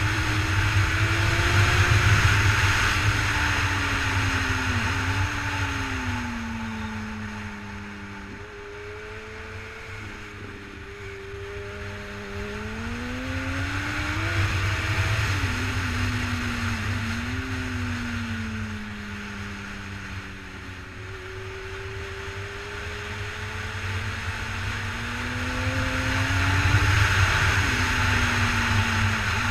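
2007 Honda CBR1000RR Fireblade's inline-four engine at speed. Its note rises under acceleration, drops sharply at gear changes and falls away under braking, over heavy wind rush that swells and fades with speed.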